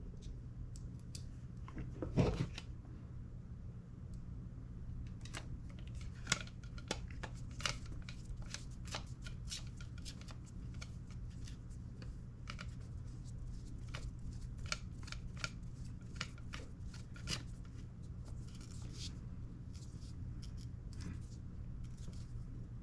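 Small metal clicks and scrapes of a screw being driven into an airsoft rifle's trigger box with a hand tool until it is tight. There is a duller knock about two seconds in, over a steady low hum.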